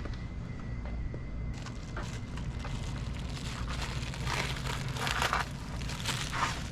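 Rustling and handling noises, a few scrapes and crinkles, strongest past the middle, over a steady low rumble.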